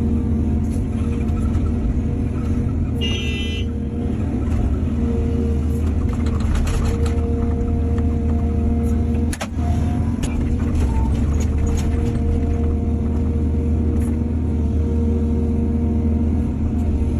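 Diesel excavator engine running steadily. Scattered clanks and knocks come through between about six and twelve seconds in, and a brief high-pitched tone sounds about three seconds in.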